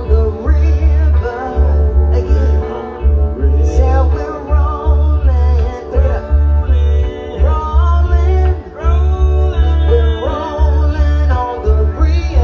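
Band music with a singer over guitar and a heavy, pulsing bass.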